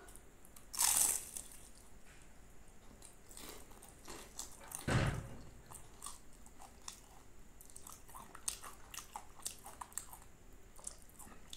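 A bite into a crispy puff-pastry aloo patty gives a loud crunch about a second in, then chewing with many small crackles of flaky pastry. A dull thump sounds about halfway through.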